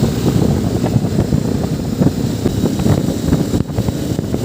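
Riding a motorcycle on the road: engine and road noise under heavy wind buffeting the microphone.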